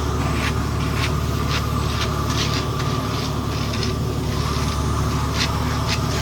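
Heavy paving equipment running with a steady low engine hum, with short, sharp scrapes or clicks coming at irregular intervals over it.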